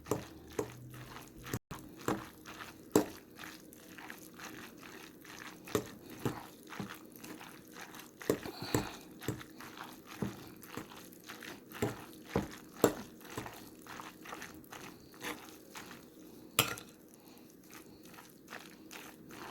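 Dressed cold spaghetti being stirred in a bowl: a steady run of irregular wet clicks, squishes and taps, a few of them louder.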